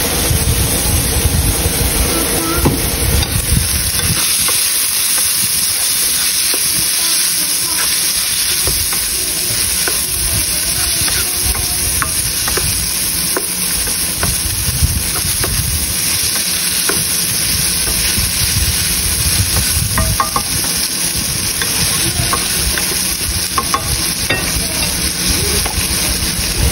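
Sliced hot dogs sizzling steadily in a nonstick frying pan while a wooden spoon stirs them, with scattered light clicks and scrapes of the spoon against the pan.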